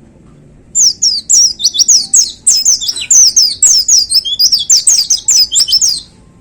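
White-eye (pleci) singing a fast, loud burst of high, rapidly repeated down-slurred twittering notes. It starts about a second in and breaks off about half a second before the end.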